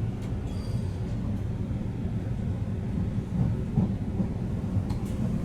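Passenger train running, heard from inside the carriage: a steady low rumble of wheels and running gear on the track.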